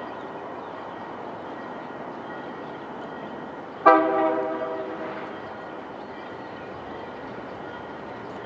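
A locomotive's air horn gives one short blast, a sudden multi-note chord that fades within about a second and a half, about four seconds in. Beneath it runs the steady rumble of a train.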